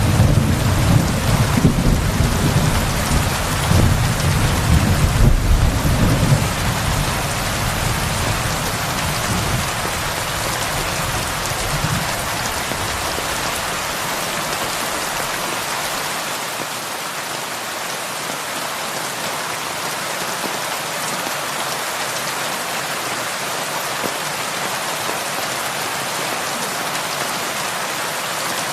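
Heavy rain falling on a roof as a steady hiss. A low rumble of thunder rolls through the first several seconds and dies away before the halfway point.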